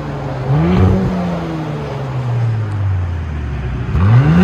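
2019 Audi SQ5's turbocharged V6 running through a straight-through dual exhaust with the front resonator and muffler deleted, only the middle resonator left: the engine revs up about half a second in, its pitch falls slowly over the next few seconds, and it revs up again near the end. The tone is deep but fairly quiet.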